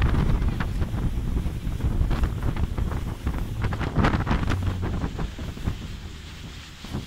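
Wind buffeting the microphone on a motorboat under way, over a low rumble, with many short sharp hits. It gets quieter near the end.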